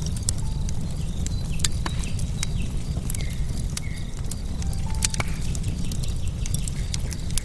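Wood fire crackling: logs burning with frequent sharp pops and snaps, irregular in timing, over a steady low rumble.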